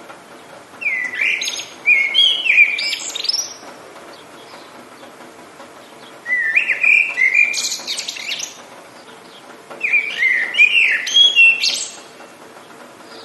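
A songbird singing three phrases of quick chirps and sliding whistles, each lasting two to three seconds, over a faint steady hiss of rain.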